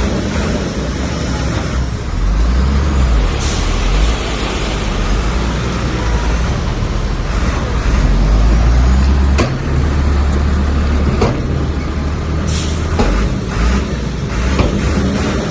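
Heavy diesel engine of a bulldozer working under load, the pitch and loudness swelling and easing. Its noise is broken by several sharp metallic knocks and clanks, the loudest a little past the middle.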